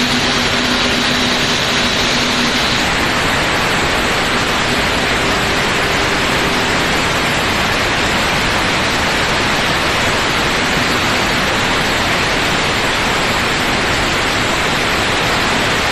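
Steady, loud crackling hiss of an electric welding arc laying a bead inside a steel ship block. A faint low hum underneath fades out about three seconds in.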